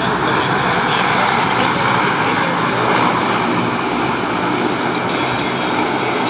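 Two F/A-18 Hornet jets passing overhead, their engines making a loud, steady rushing noise.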